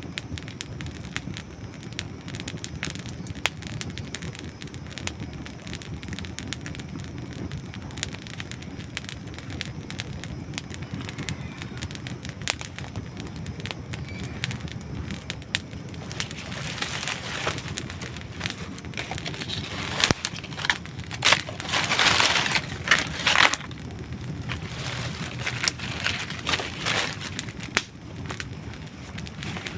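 Campfire of dry wood burning, crackling and popping: many small sharp snaps over a steady low noise, with a louder flurry of crackles about two-thirds of the way through.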